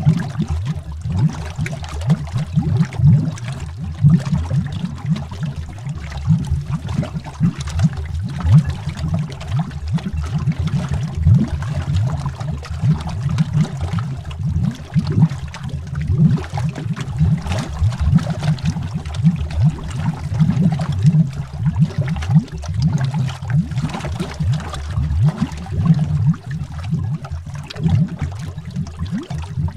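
Continuous stream of air bubbles heard underwater: dense, irregular, low-pitched bubbling.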